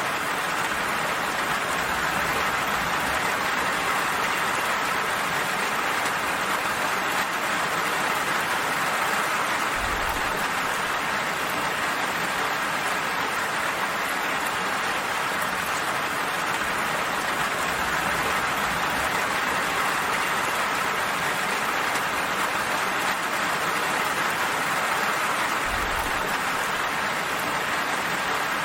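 Steady, even rain falling with a constant hiss.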